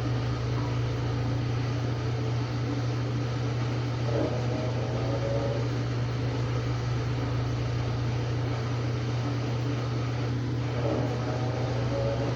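Samsung WA45T3200AW top-load impeller washer running mid-cycle: a steady motor hum, with a higher whine that comes and goes, about four seconds in and again near the end.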